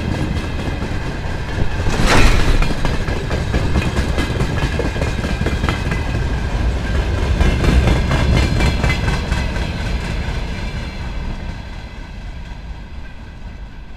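Freight train wagons rolling past close by, their wheels clattering over the rail joints with a steady high ringing, and one loud bang about two seconds in. The end of the train passes about eleven seconds in and the rumble fades away.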